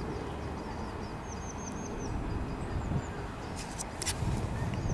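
Low rumble of an electric passenger train approaching along the track, still at a distance. A small bird twitters a quick run of chirps about a second in.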